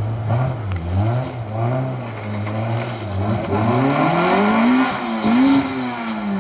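Peugeot 206 rally car's four-cylinder engine pulling away on a dirt road: low, uneven revs at first, then revs rising and falling as it accelerates.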